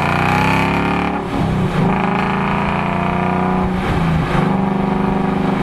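Ford Mustang GT's 5.0 Coyote V8 through an MRT Interceptor H-pipe cat-back exhaust, accelerating. The engine note rises in pitch, drops back about a second in and again near four seconds as at gear changes, then holds steady.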